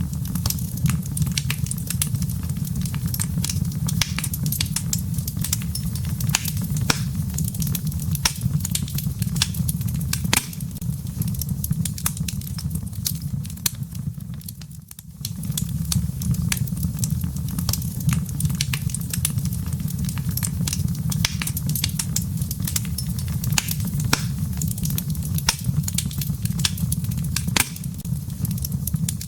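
Wood fire burning in a fireplace: a steady low rumble of flames with frequent sharp pops and snaps from the crackling firewood. It dips briefly quieter about halfway through.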